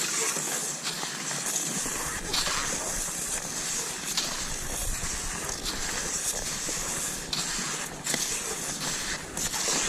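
Cross-country skis sliding and hissing over snow, with a few short, sharper scrapes here and there.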